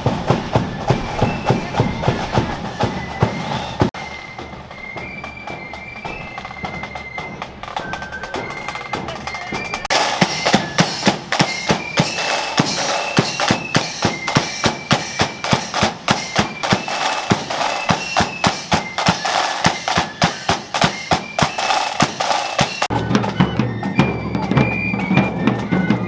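Marching flute band playing: a high flute melody over regular bass drum and snare beats. The drums grow louder about ten seconds in, and a low steady drone comes in near the end.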